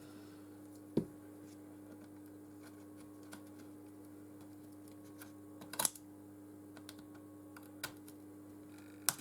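A few short, sharp clicks and taps from handling a phone and small repair tools, spaced a second or more apart, over a steady low hum.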